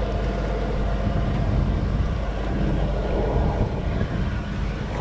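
A sailboat's auxiliary engine running steadily, a low, even hum.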